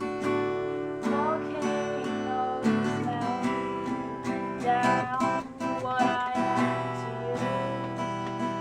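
Acoustic guitar music, strummed chords played steadily.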